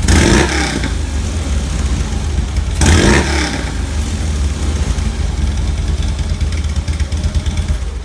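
2009 Harley-Davidson FLHT's V-twin running through its stock exhaust, held above idle, with two short throttle blips about three seconds apart, one right at the start and one about three seconds in.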